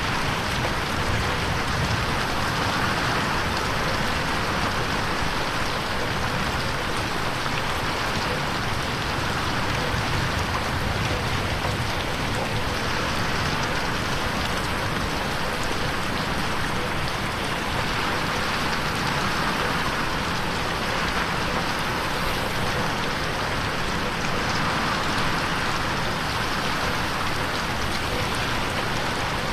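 Rain falling against a window pane: a steady, dense hiss that swells and eases every few seconds.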